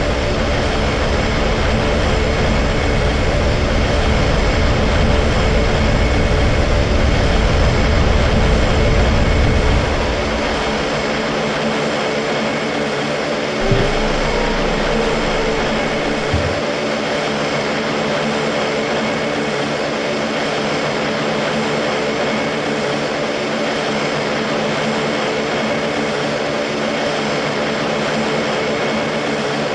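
Steady aircraft engine drone with several constant tones running through it. The deep low rumble drops away abruptly about ten seconds in, and two short low knocks follow a few seconds later.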